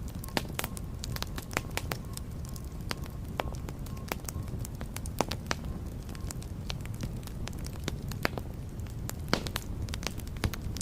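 Fire burning in a fireplace: irregular sharp crackles and pops over a steady low rumble of flame.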